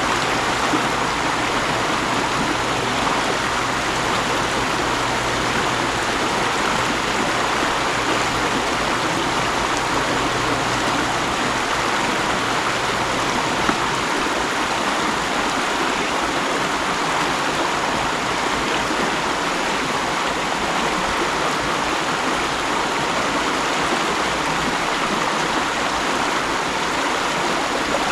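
Mountain stream rushing and splashing over rocks, a steady, even wash of water noise.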